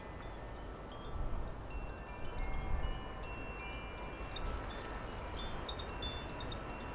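Wind chimes ringing irregularly in a breeze, many tones at different pitches each ringing on briefly. Low wind rumble on the microphone swells about a second in and again near three seconds.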